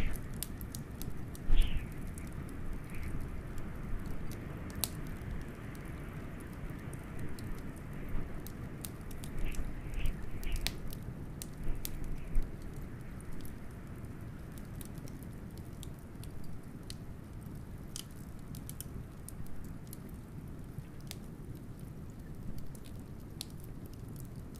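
Wood fire crackling with many sharp pops and ticks over a steady low rumble of wind. Louder flare-ups of crackling come about a second and a half in and again around ten to twelve seconds in.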